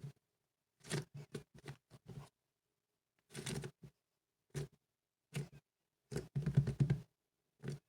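Cloud slime being worked by hand, crackling and popping in short bursts, about seven clusters of small clicks with silent gaps between them.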